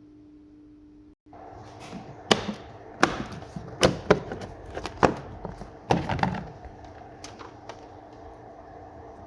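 Half a dozen irregular sharp knocks and clicks over a faint steady hum.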